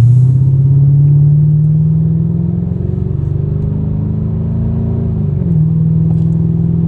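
Mercedes CL500's 5.0-litre V8 running with its exhaust system removed, so the open exhaust is loud and raw. Its note climbs slowly under acceleration, dips briefly about five seconds in, then holds steady.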